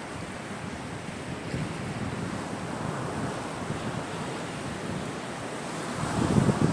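Sea waves washing onto the shore in a steady rush, with wind on the microphone. The surf swells louder near the end as a wave breaks.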